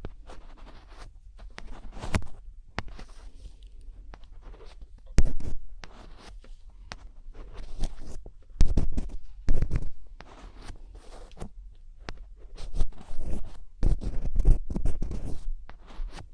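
Close-miked ASMR scratching: irregular scratchy strokes and small clicks, with louder bursts of scratching about 5 s in, around 9 to 10 s, and again around 13 to 15 s.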